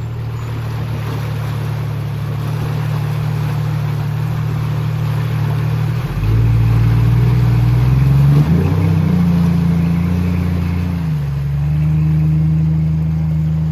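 Off-road vehicle engine running at low speed. Its pitch steps up and it gets louder about six seconds in, climbs again near nine seconds, then settles slightly lower.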